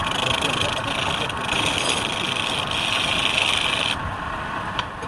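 Wood lathe running while a turning tool cuts the spinning wood: a steady scraping hiss that swells and eases in spells, dropping back about four seconds in.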